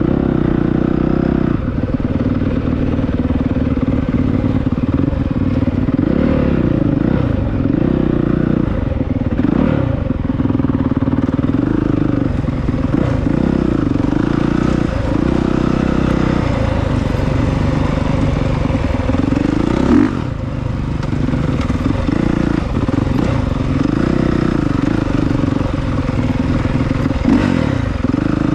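Honda CRF450R's single-cylinder four-stroke engine ridden hard off-road, revving up and dropping back over and over as the throttle opens and closes, its pitch rising and falling every second or two.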